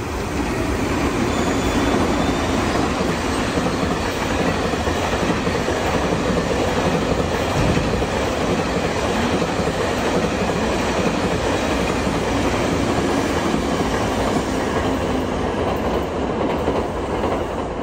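Freight train passing close by: a steady, loud rumble and clatter of wagon wheels rolling over the rails, swelling just after the start and holding throughout.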